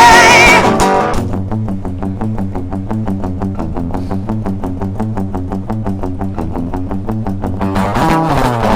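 Acoustic guitar strumming a steady rhythm in an instrumental break of a live acoustic song, after a held sung note fades out in the first second.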